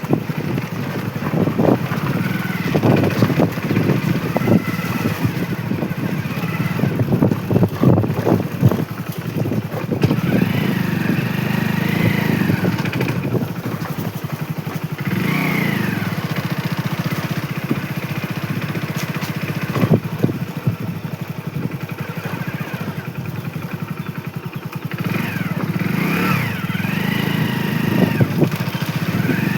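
Motorcycle engine running while riding, with a steady low rumble. Its pitch rises and falls several times as the bike speeds up and eases off.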